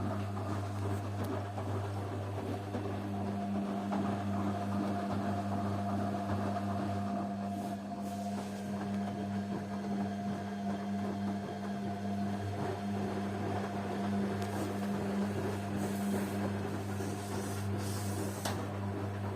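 Washing machine motor running with a steady low hum.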